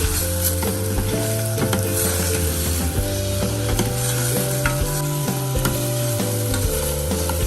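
Food sizzling as it fries in a pan, stirred with a utensil that clicks against it now and then. A tune plays underneath, its notes changing every half second or so.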